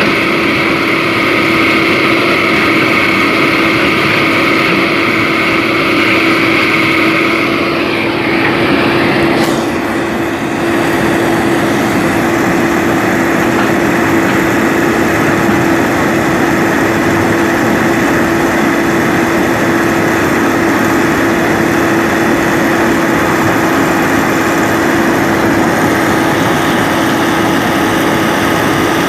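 Excavator diesel engine running steadily with a constant hum. About nine seconds in the sound changes: the higher tones drop away and a higher hiss comes in.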